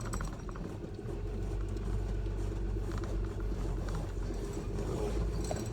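Pickup truck carrying a slide-in camper driving slowly over a rough dirt road: a steady low engine and road rumble with a few faint knocks and rattles.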